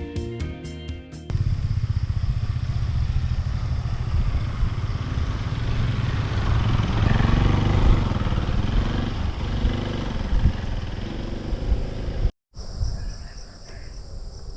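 Motorcycle running on the move, a loud steady low rumble with a rough, noisy texture, following about a second of music. It cuts off sharply about twelve seconds in, giving way to quieter outdoor sound with a steady high hiss.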